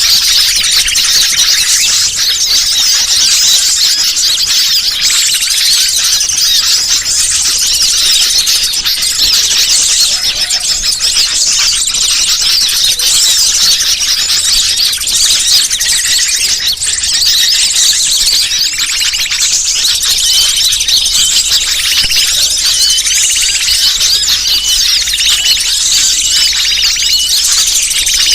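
Dense, continuous high-pitched chirping and chattering of many small birds at once. It is a bird-lure (pikat) call recording, played to draw wild birds in.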